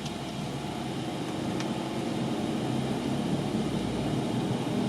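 Steady low road and tyre rumble inside the cabin of a 2009 Nissan Altima on the move, growing gradually louder as the car gathers speed; the car has a worn front right wheel bearing that makes the front end noisy.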